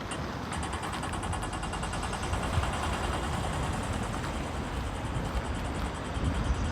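Steady street traffic noise, with a fast, even, faint high ticking running through most of it.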